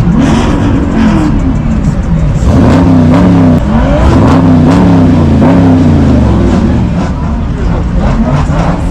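A car engine revved over and over, its pitch climbing and dropping about five or six times in quick succession before settling back.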